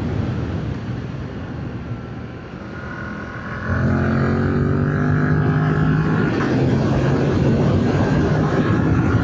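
Yamaha MT-07's parallel-twin engine on its stock exhaust. It is quieter off the throttle for the first few seconds, then opens up sharply about three and a half seconds in and pulls hard, its pitch rising under acceleration.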